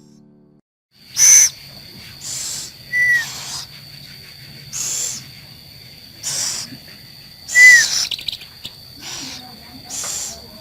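Scops owl giving a series of short, raspy hissing calls, about eight in all, one every second or so.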